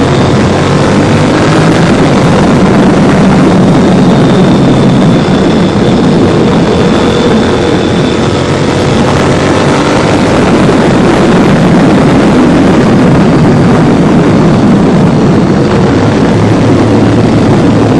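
Honda VTR1000 SP1's 90-degree V-twin engine running loud and fairly steady through titanium MotoGP-style exhausts.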